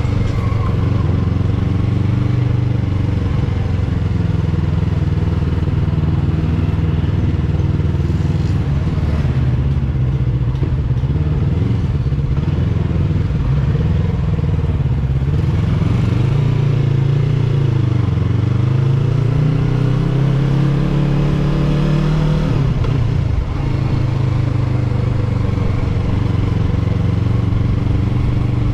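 Yamaha R3 motorcycle's parallel-twin engine running steadily while riding. Its note dips and climbs back once a little past the middle.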